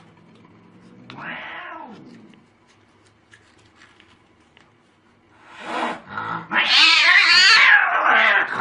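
A cat gives a short meow about a second in, then a loud, long wavering yowl from about five and a half seconds on.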